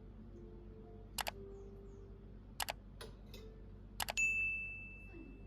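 Utensils clinking against dishes: sharp double clicks about every second and a half, then a clink that rings on clearly and fades over about a second and a half.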